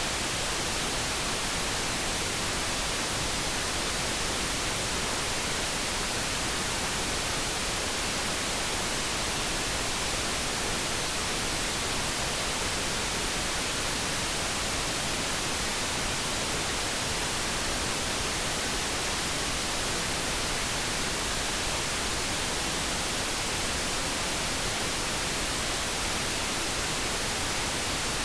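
Steady synthetic noise, an even hiss that does not change, produced as light brown noise for focus; no kettle tone stands out.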